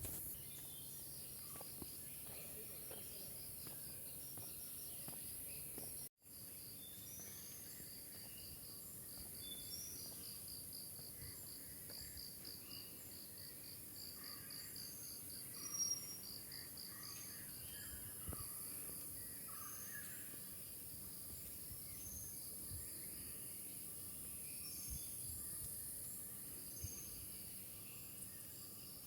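Tropical forest ambience: an insect trills steadily with a fast pulse, high-pitched bird calls repeat about once a second, and other birds call faintly in the background, with one louder call near the middle. The sound cuts out completely for a moment about six seconds in.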